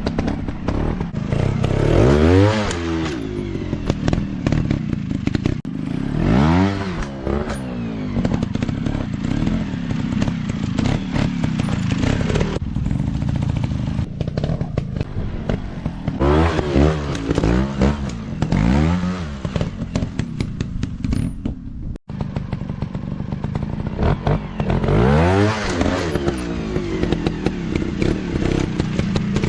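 150cc dirt bike engine revving hard and dropping back again and again, about six sharp rises and falls in pitch, over steady rough engine and clattering noise.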